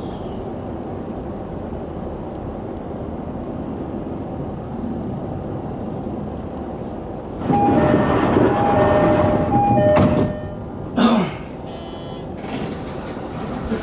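Sotetsu 10000 series electric train running steadily along the line. About seven and a half seconds in it gets louder for a couple of seconds as a level crossing warning bell rings past in two alternating tones, and about a second later there is a brief louder sound that falls in pitch.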